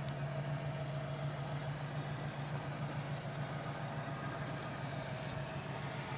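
1954 Oldsmobile Super 88's 324 cubic inch V8 idling steadily with an even, low purr.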